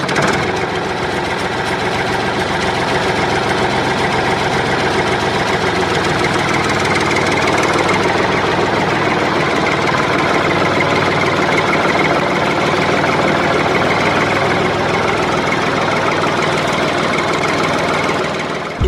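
A motor running steadily, starting and stopping abruptly.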